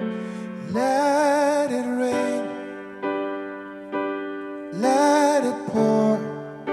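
Live worship music: sustained electric piano chords, struck about once a second, with two held wordless vocal phrases sung with vibrato.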